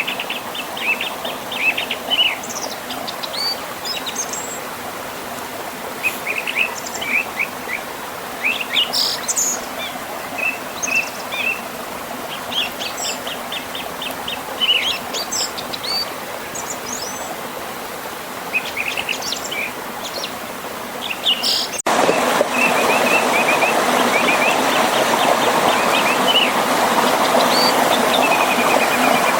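Several birds chirping and singing over the steady rush of flowing river water. About three-quarters of the way through, the sound breaks abruptly to a louder rush of water with fewer bird calls.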